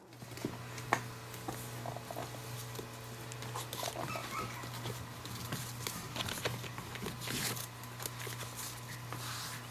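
Six-week-old Chihuahua puppy playing at a person's feet on a hardwood floor: scattered light clicks and taps, with a few faint whimpers, over a steady low hum.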